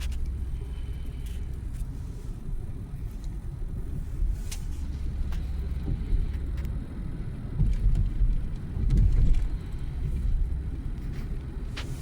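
Low, steady road and engine rumble of a moving car heard from inside the cabin, swelling louder for a couple of seconds about eight seconds in before settling back.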